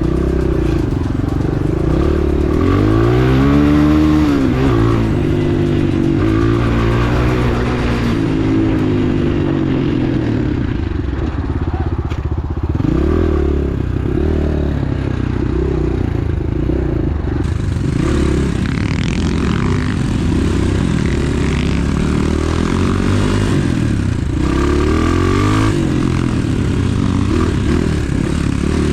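Enduro pit bike's engine being ridden hard, the revs rising and falling over and over as the throttle is worked.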